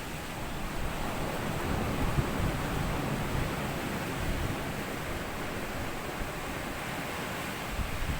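Small sea waves washing up onto a sandy beach: a continuous surf wash that swells a second or two in and eases off in the later part.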